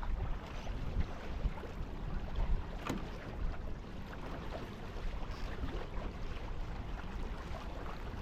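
Tornado catamaran sailing in light wind: water washing along the hulls and wind rumbling on the action camera's microphone. A single sharp click about three seconds in.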